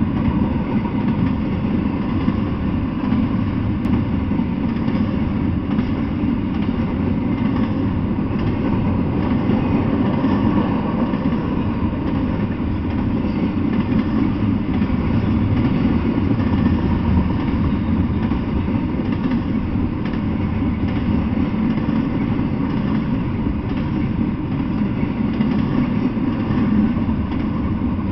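Double-stack intermodal freight train rolling past, its wheels running on the rails in a steady, continuous noise.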